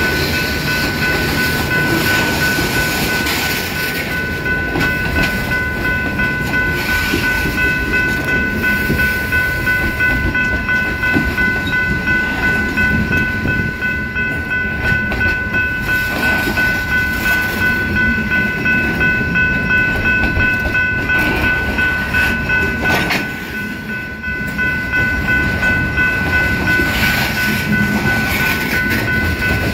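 Freight cars rolling past at close range: a steady rumble of steel wheels on rail with regular clicking as the wheels cross rail joints. A steady high-pitched ringing tone runs through it.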